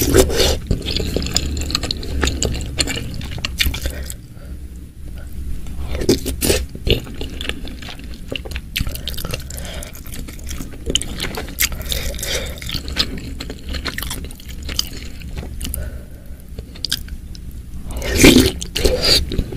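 Close-miked eating sounds: wet chewing and crunching of whole green bird's-eye chilies and soft boiled wontons in spicy broth, with many small crackly mouth clicks and the wooden spoon scraping in the glass dish. A louder wet mouthful is taken off the spoon at the start and again near the end.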